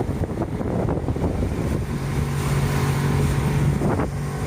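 Motorboat engine running under wind noise on the microphone, with a steady low hum that comes in about halfway through.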